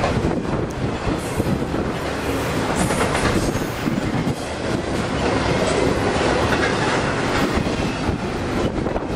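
Intermodal freight train of trailers on flatcars rolling past, a steady rumble of wheels with clacking over the rail joints.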